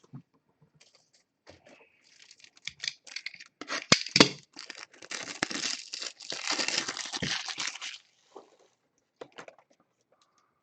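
Crinkling and scraping of plastic as a trading card is handled and slid into a card sleeve and toploader, with two sharp clicks about four seconds in and a denser rustle that stops about eight seconds in.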